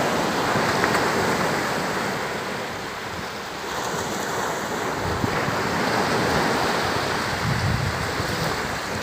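Sea waves breaking and washing up the shore in a steady rush, easing about three seconds in and building again, with wind on the microphone.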